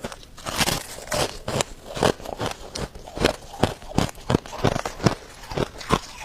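Freezer frost ice being bitten and chewed, a steady run of crisp crunches about two to three a second.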